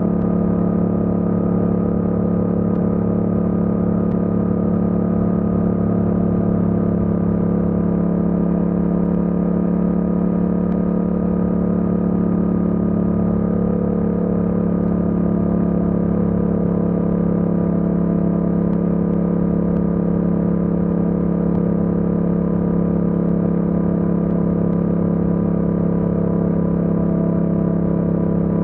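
Yamaha MT-07's 689 cc parallel-twin engine running at steady revs while cruising, a constant drone that holds the same pitch with no revving up or down.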